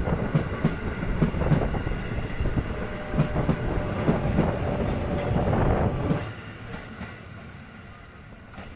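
KRL electric commuter train running on the track, its wheels clicking over rail joints in an uneven series of clacks over a steady rumble, which dies down about six seconds in.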